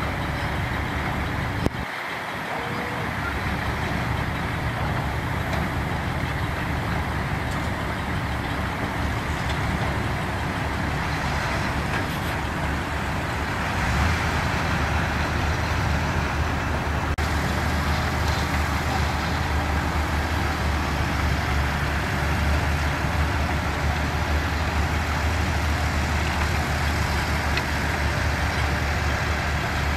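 Diesel engines of construction machines, bulldozers and dump trucks, running steadily. There is a brief click about two seconds in, and about halfway through a deeper, steadier engine drone grows louder.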